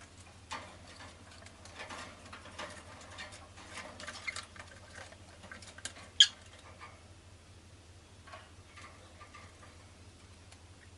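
Rosy-faced lovebird chattering in short squeaky chirps and clicks, with one loud sharp chirp about six seconds in.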